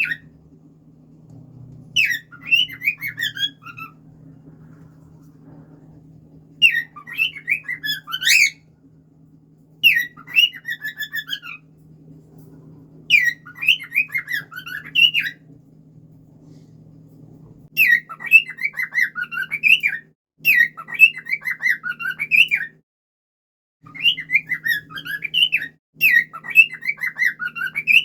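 Cockatiel singing: short warbling whistled phrases of quickly rising and falling notes, about eight of them with pauses between, over a faint steady low hum.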